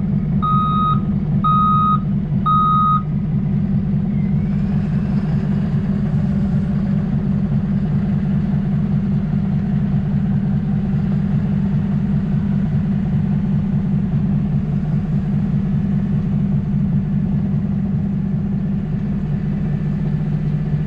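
A truck's backup alarm beeping about once a second for the first three seconds, then stopping, over a diesel truck engine running steadily.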